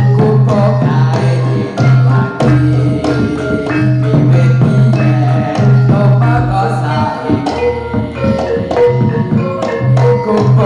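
Jathilan folk dance music played live: dense percussion strokes over a gamelan-style melody, with a held low tone underneath.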